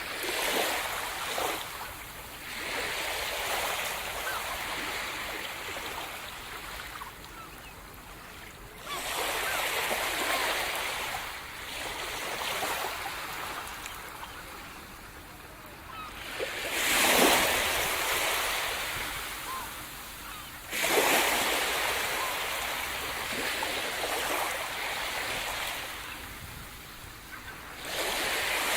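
Sea surf breaking on the shore: waves crash every few seconds, each a sudden rush that slowly dies away, the loudest about two-thirds of the way through.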